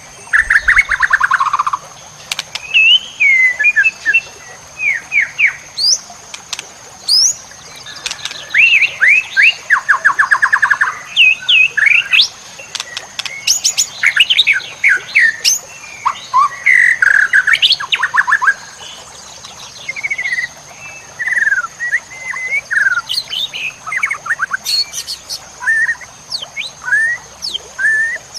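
White-rumped shama (murai batu) singing a varied, fast song of sharp whistles, chips and quick rattling trills over a faint steady high tone.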